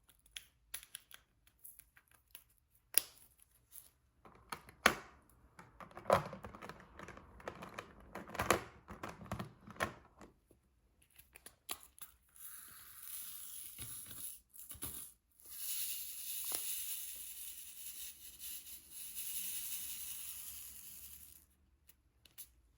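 Diamond painting handling sounds: light clicks and taps of the drill pen and plastic resin drills, with a few crinkly clusters, then several seconds of steady scratchy hiss from plastic film being handled, with a short break partway.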